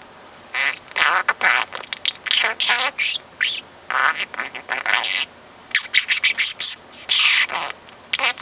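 Budgerigar chattering: a string of short scratchy warbles, squawks and clicks, coming in bursts with brief pauses.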